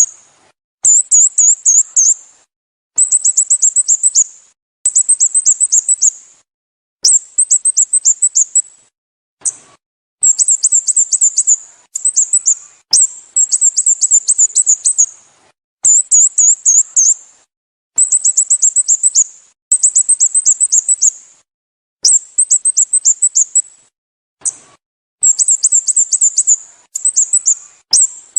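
Sooty-headed bulbul calls: repeated bursts of rapid, high, down-slurred chirps, each burst about a second long, coming every second or two with dead-silent gaps between them.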